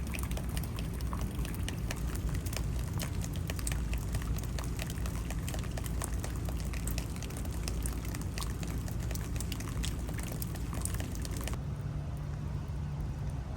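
Rain and dripping water, many separate drops ticking close by over a low steady rumble. About eleven and a half seconds in it cuts abruptly to a duller, steady low hum without the drops.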